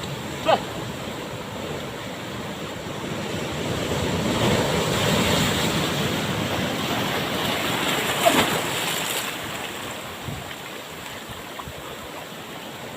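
Ocean surf: a wave breaks and washes in, swelling over a few seconds and then easing off.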